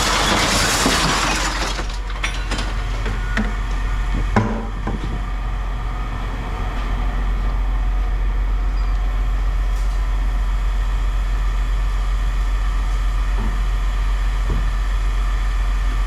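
An engine idling steadily, with a loud hiss for the first two seconds and a few sharp metallic knocks around three to five seconds in.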